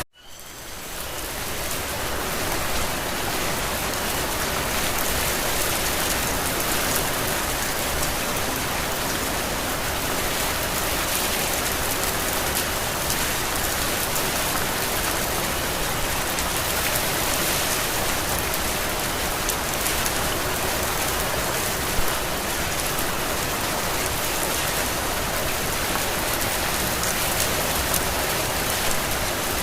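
Steady heavy rain pattering on surfaces, an even hiss with no let-up. At the very start it drops out almost completely and fades back in over about two seconds.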